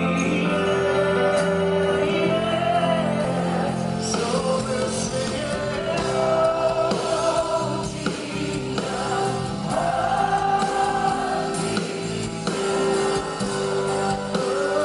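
Live gospel worship music: singers and a choir holding long notes over keyboard and band accompaniment.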